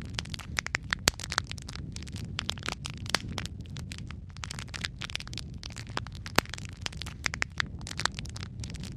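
Wood fire in a fireplace crackling continuously, with dense irregular snaps and a few sharper, louder pops over a low steady rumble of the flames.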